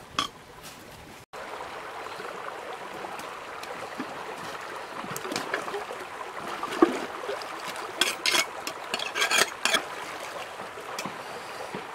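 Water trickling and splashing, with a cluster of sharp clicks and knocks about eight to nine and a half seconds in.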